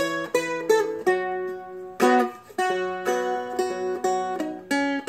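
Seagull Merlin, a four-string strumstick-style instrument, picked in single notes: about a dozen plucks, each ringing on over a lower held tone, working through a short B minor phrase of the song.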